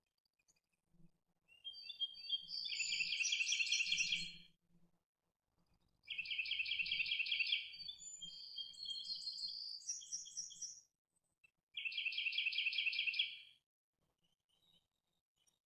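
A songbird singing three phrases of rapid trills and chirps, each a couple of seconds long, with pauses between.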